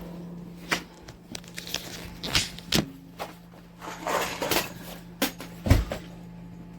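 A series of irregular knocks and clicks, about six of them, the loudest near the end, over a faint steady low hum.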